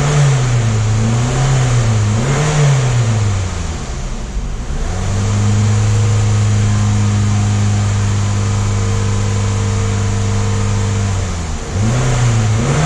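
2002 Toyota Camry engine being revved: a few throttle blips for the first few seconds, then held at a steady raised speed for about six seconds before dropping back and wavering again. The throttle is worked to drive the mixture rich while the upstream O2 sensor's response is checked.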